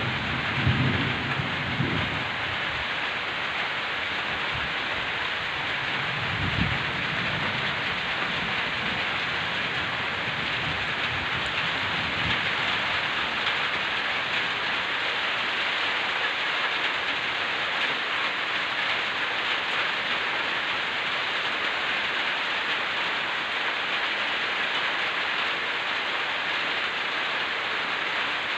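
Heavy rain falling steadily, with low rumbles of thunder in the first couple of seconds and again about six and twelve seconds in.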